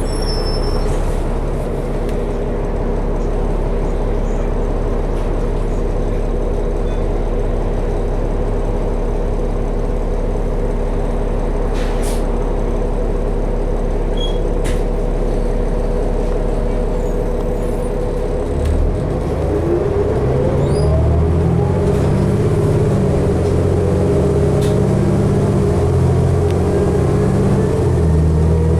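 Inside a 2012 New Flyer D60LFR articulated diesel bus: the engine hums steadily, then about two-thirds of the way in its note deepens and a rising whine sets in as the bus speeds up.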